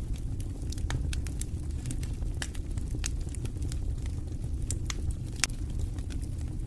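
Log fire burning in a fireplace: irregular crackles and pops over a steady low rumble, with one sharper pop about five and a half seconds in.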